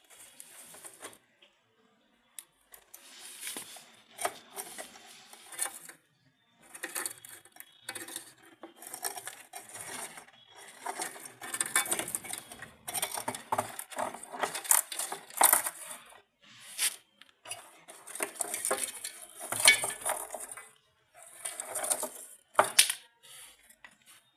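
Irregular bursts of metallic clinking and rattling, with short gaps between them, louder from about the middle on.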